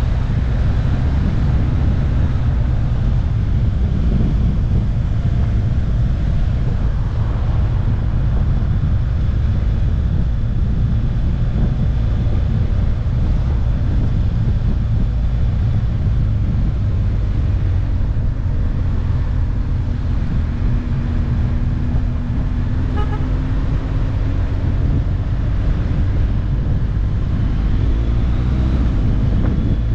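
Motorcycle riding at road speed: a steady low engine drone under rushing wind on the microphone. The engine note drifts in pitch over the last several seconds.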